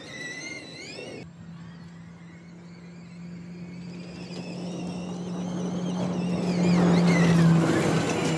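Audi RS Q e-tron Dakar rally car with its electrified drivetrain driving off road: a steady low hum with an electric whine above it that rises in pitch as the car speeds up. It grows louder as the car approaches, with a rush of tyre and ground noise loudest about seven seconds in.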